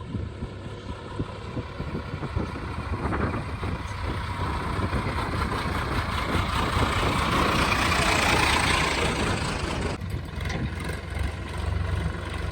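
Heavy diesel engine running steadily as a JCB 3DX backhoe loader works, with a higher-pitched rise in the machine's sound that swells about halfway through and fades a few seconds later.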